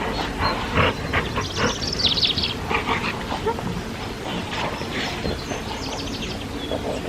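A dog making a run of short, irregular noises, with a bird's fast trill about two seconds in and fainter trills later.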